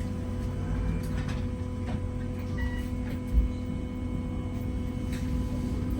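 Interior of a Gemini 2 hybrid double-decker bus: a steady low rumble with a constant droning hum from the hybrid drive. There is a single low knock about three and a half seconds in.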